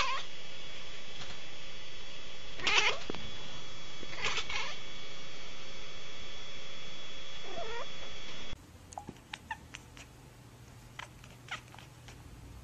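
Cat yowling: three loud, wavering drawn-out calls about a second and a half apart. Then, about two-thirds of the way through, the sound drops to a much quieter stretch with a few faint clicks.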